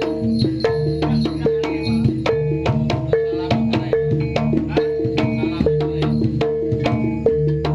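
Jaranan gamelan ensemble playing: sharp drum and percussion strokes at a fast, even beat over a short, repeating cycle of pitched metal notes.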